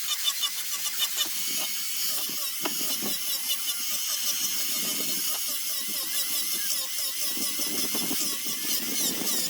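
Small handheld power sanding tool running at high speed against zelkova root wood, its motor pitch wavering up and down as the tool is pressed and moved, with scattered light knocks.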